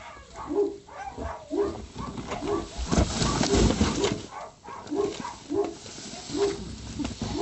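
An animal calling over and over in short pitched calls, about two a second, with a louder noisy rush about three seconds in that lasts about a second.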